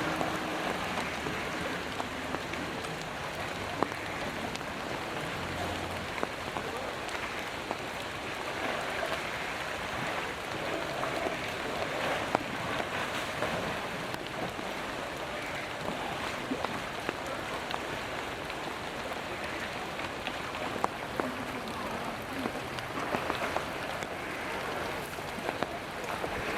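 Steady rain falling, a continuous hiss of drops on wet surfaces and water, broken by a few sharp ticks of single drops.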